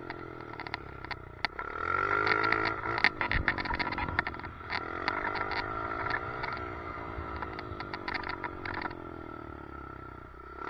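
Motorcycle engine revving up and falling back again and again while riding, with a steady high tone under it and a rapid rattling clatter from the loose helmet chin mount holding the camera. The engine eases off near the end.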